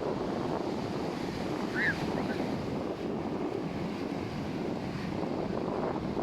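Ocean surf washing onto a sandy beach, with wind buffeting the microphone. A brief high chirp sounds a little under two seconds in.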